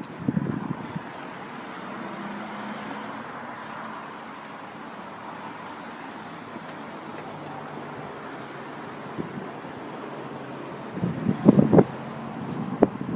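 Steady road traffic noise from vehicles at the level crossing. Near the end, wind buffets the microphone in loud low gusts.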